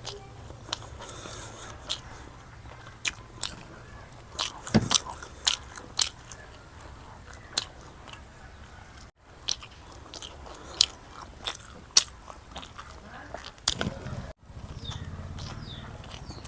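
A person eating close to the microphone: biting and chewing with many sharp clicks and crunches, busiest about four to six seconds in.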